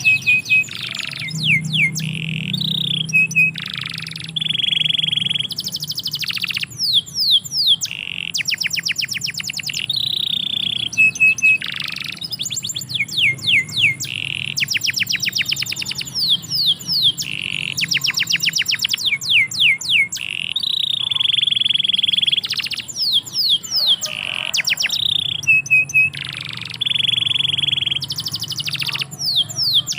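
Domestic canary singing continuously. Rapid trills of quick falling notes alternate with held, steady whistled tones, with only brief breaks.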